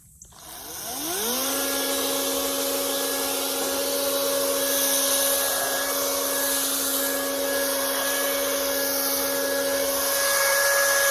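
Toro chainsaw spinning up with a rising whine about half a second in, then running steadily at full speed.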